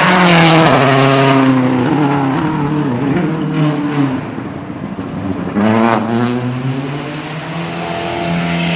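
Rally car engine at high revs, the pitch falling as it comes off the throttle early on, then a sharp burst of revs about two-thirds of the way through, and steadier running near the end.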